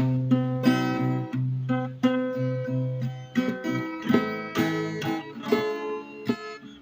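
Acoustic guitar playing an intro, strummed chords and plucked notes.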